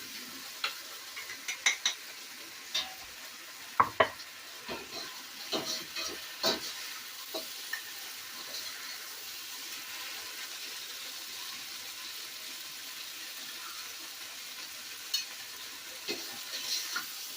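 Beef, chicken and bok choy stir-frying in a hot pan: a steady sizzle, with a metal spatula scraping and clanking against the pan in a cluster of sharp strokes in the first half and again near the end.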